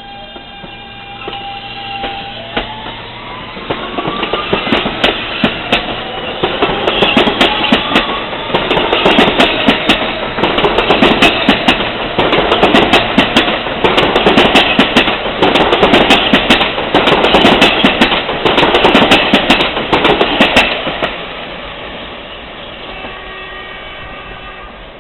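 R160B subway train accelerating away: its traction motors whine upward in pitch over the first several seconds while the wheels start clattering over the rails, the clatter turning into a loud, rapid clickety-clack that eases off about four seconds before the end.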